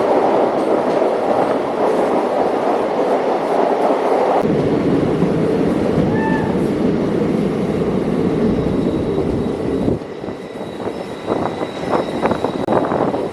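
Passenger train running, a steady rumble of wheels on rail. The noise changes character about four seconds in and falls away sharply about ten seconds in, after which a run of sharp clicks is heard.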